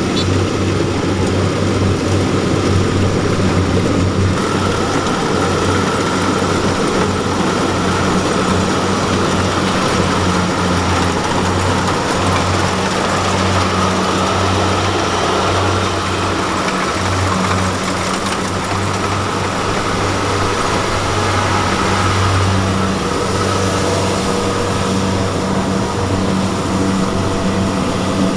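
Diesel engine of farm harvesting machinery running steadily, with a fainter steady whine above the engine note for much of the time.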